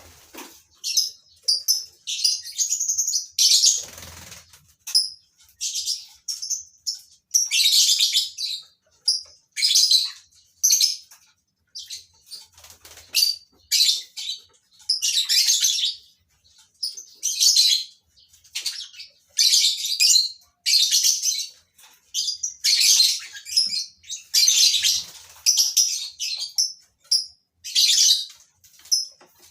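Colony of lovebirds chirping and screeching: shrill high calls in short bursts that follow one another every second or so, with a brief rustle about four seconds in.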